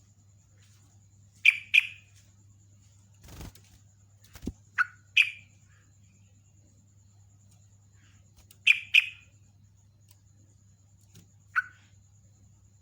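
Yellow-vented bulbul (trucukan) calling in short, sharp chirps, mostly in pairs and about seven in all, used as a lure call for wild bulbuls. Two dull thumps come between the first and second pairs.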